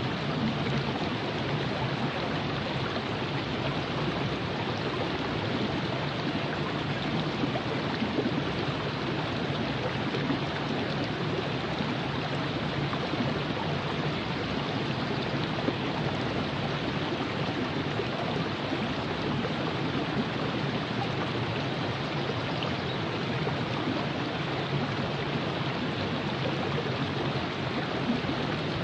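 River water rushing and burbling over rocks in a steady, even flow.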